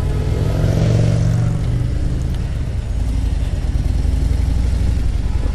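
Motorcycle engine running on the move, with wind rushing over the microphone; the engine note is strongest in the first couple of seconds, then settles.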